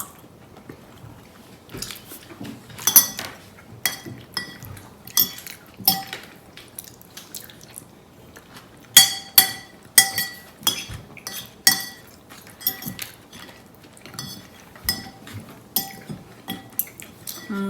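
Spoon clinking and scraping against a dish while eating: irregular sharp clinks with a brief ring, coming more often about halfway through.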